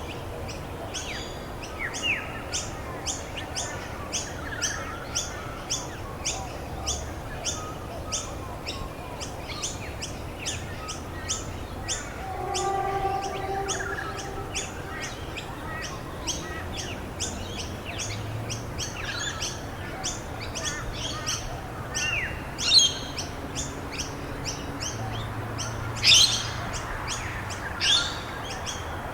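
Birds chirping: one bird repeats a short, high chirp about twice a second, and a few louder, sweeping calls from other birds come in the last third, over a faint steady hiss.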